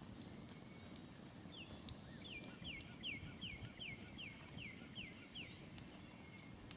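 A songbird singing a quick run of about ten down-slurred whistled notes, roughly two and a half a second, that starts about a second and a half in and stops near the end. Faint scattered crackles from a smoldering campfire and a low outdoor rumble run underneath.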